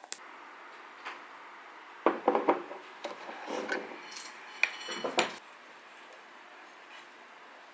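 Dishes and cutlery clinking and knocking as tableware is handled, with a quick cluster of clinks about two seconds in and a few ringing clinks near the middle.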